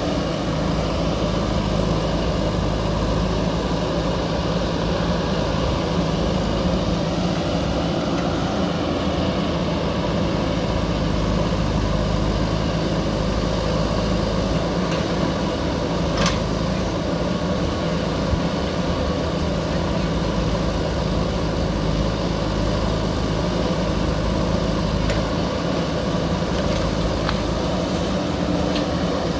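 JCB backhoe loader's diesel engine running steadily at an even pitch, with a few faint knocks over it, the clearest about halfway through.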